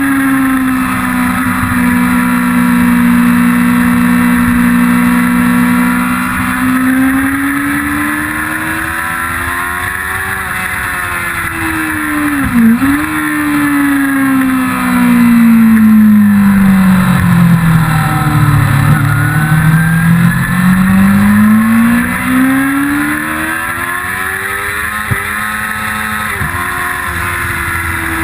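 A Yamaha YZF-R6's 600 cc inline-four engine at track speed. Its note holds, climbs with quick sharp dips at the gear changes, drops slowly to a low about two-thirds of the way in, then climbs hard again. A steady rush of wind noise runs underneath.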